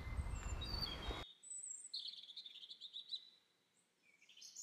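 Birds singing and chirping over a low outdoor background hiss and rumble. About a second in, the background noise cuts off abruptly, leaving the birds on their own: a rapid run of high chirps, then more calls near the end.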